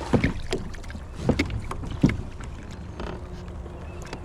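Sharp knocks of gear or a paddle against the hull of a Moken 12.5 V2 fishing kayak, three louder ones in the first two seconds, over a steady low rumble of wind and moving water.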